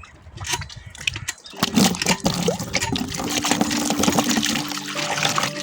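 Water swirling and gurgling down a whirlpool vortex, with splashy crackles, louder from about a second and a half in. Steady held tones of music come in about halfway through.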